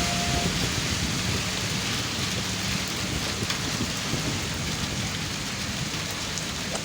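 Steady rain falling, with a low rumble underneath, slowly getting quieter over a few seconds.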